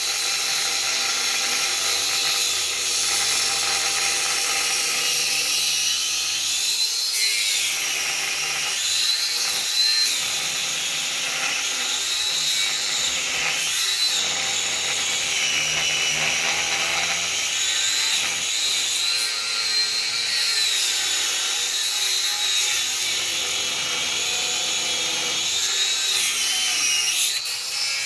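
Angle grinder with a thin cutting disc cutting steel, running without a break. Its high whine drops in pitch several times as the disc is pressed into the metal under load, then climbs back.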